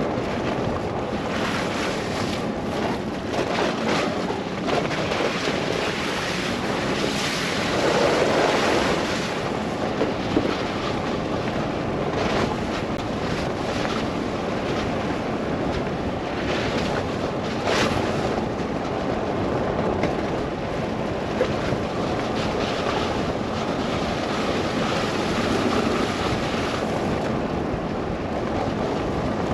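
Steady wind and road noise of a car driving through a snow blizzard, with a few short sharp knocks along the way.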